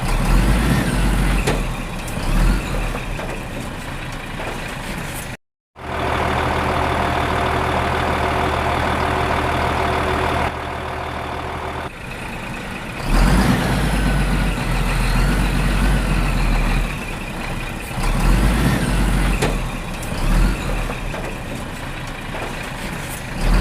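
Heavy vehicle engine sounds, as for a tractor or digger, running with changes in load. They cut out completely for a moment about five seconds in, then come back as a steady engine hum before rumbling on.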